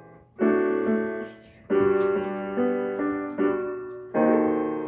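Piano playing slow chords, about four struck in turn, each ringing on and fading before the next.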